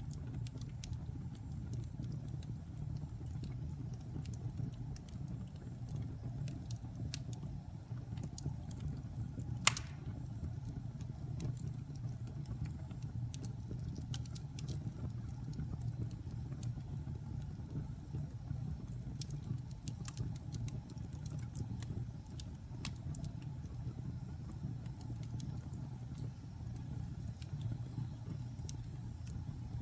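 Log campfire crackling: scattered sharp pops and snaps over a steady low rumble, with one loud pop about ten seconds in.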